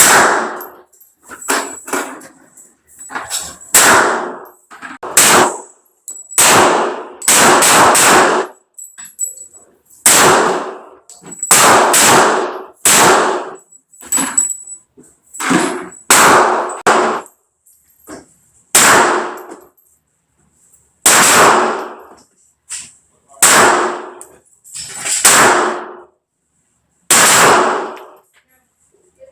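Handgun shots fired one at a time at an irregular pace, about two dozen in all, each sharp report followed by a short ringing tail.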